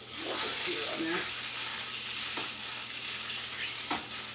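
Skin-on chicken legs searing in a hot pan: a steady sizzle, louder for about the first second, with a couple of light knocks later on.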